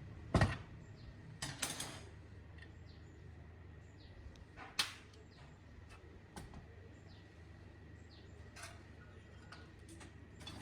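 A few sharp knocks and clicks of parts and tools being handled, the loudest about half a second in and another small cluster shortly after, over a low steady hum, with small birds chirping faintly in the background.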